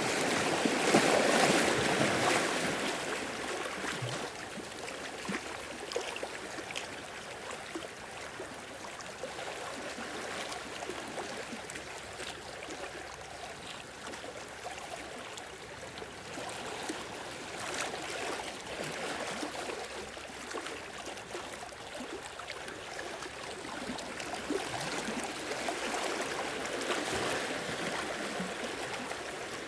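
Sea waves washing in and drawing back, a steady rush of water. The biggest surge comes in the first few seconds, with smaller swells building again about two-thirds of the way through and near the end.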